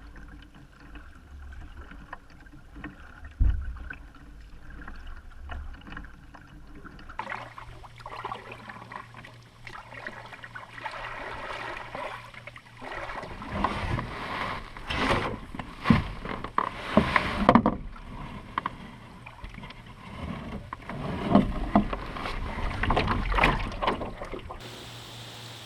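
A canoe being handled on the water: a sharp knock a few seconds in, then from about halfway a series of knocks and splashy strokes against the hull and water.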